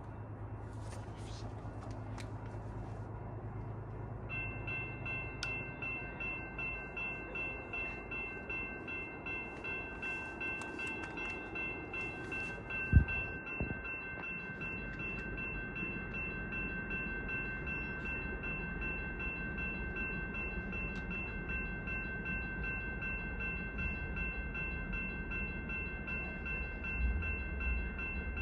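A railroad warning bell ringing steadily at about two strikes a second, starting about four seconds in. There is one sharp low thump about thirteen seconds in, and a low rumble builds near the end.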